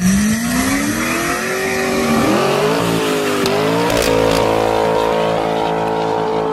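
Chevrolet Corvette V8 revving hard during a burnout, with the rear tires squealing. The engine pitch climbs over the first three seconds, dips briefly, then holds steady at high revs.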